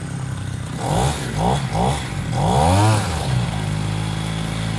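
Small two-stroke brush-cutter engine driving a long-tail boat, blipped up and down three times in quick succession, then revved once more for longer with the pitch rising and falling, before settling into a steady lower run.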